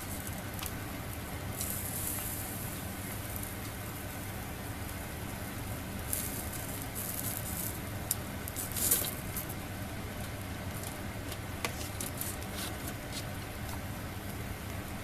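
Food sizzling on a grill net over a small stainless-steel fire stand, with scattered pops and crackles and a louder flare of sizzling about nine seconds in.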